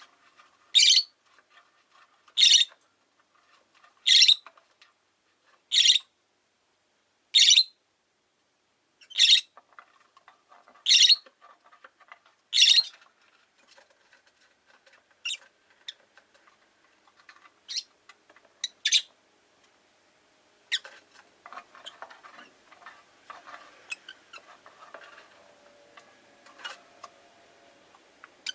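Rosy-faced lovebird giving loud, sharp, high-pitched calls, one about every second and a half. About halfway through, the calls turn fainter and sparser, and softer rustling with small clicks follows.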